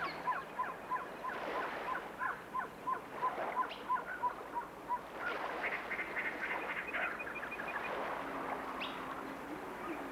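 Birds calling: a run of short, evenly spaced calls, about three a second, for the first five seconds or so, then a quicker series of higher chirps.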